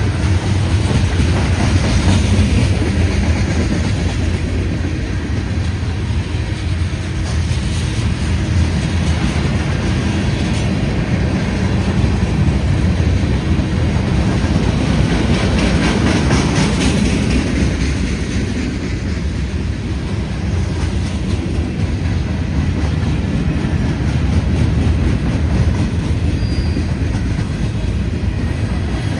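Freight train cars rolling past close by: a steady rumble, with the wheels clicking over rail joints, louder around the middle.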